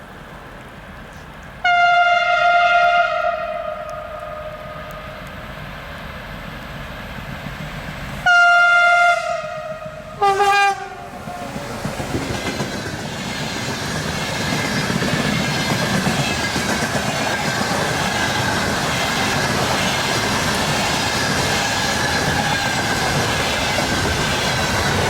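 ER20CF diesel locomotive sounding its horn three times: a blast of about a second and a half, another about six seconds later, then a short one at a different pitch. After that the train's running noise rises and holds steady as it passes, with wheels clacking on the rails.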